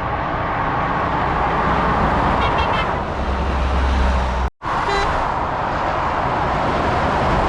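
Steady noise of motorway traffic rushing past, the roar of tyres and engines from heavy vehicles and cars. There is a short high tone at about 2.5 s and another at about 5 s, and the sound cuts out for a moment at about 4.5 s.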